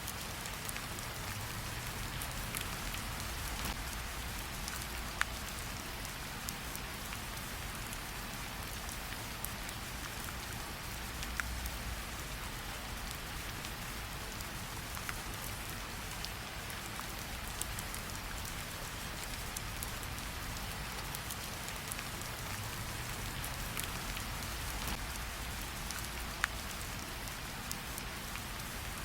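Steady rain falling on a surface, an even hiss with a few sharp clicks now and then, the clearest about five, eleven and twenty-six seconds in.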